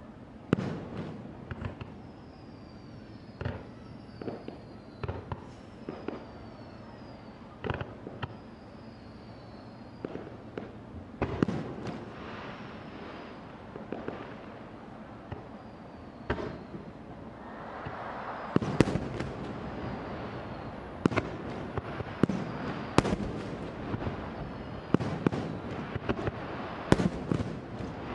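Fireworks display: aerial shells bursting in irregular bangs with crackle between them. The bursts come thicker and louder about two-thirds of the way through.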